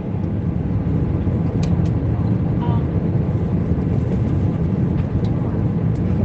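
Airbus A320 cabin noise in flight: a steady low rumble of engines and airflow, with a few faint clicks.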